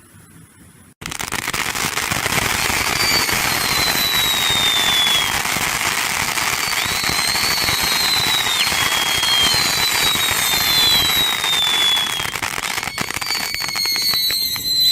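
Fireworks going off: a dense, continuous crackle of rapid pops that starts suddenly about a second in, with several whistles gliding down in pitch above it.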